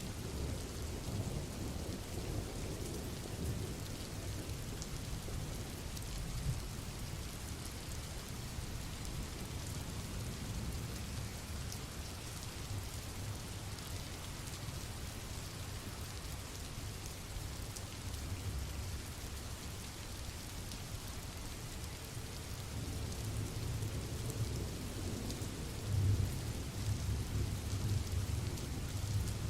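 Steady rain falling, over a low rolling rumble of thunder that grows louder near the end.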